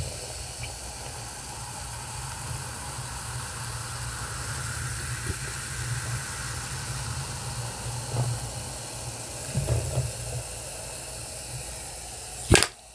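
A steady hiss with a low hum underneath, ended by a sharp click near the end.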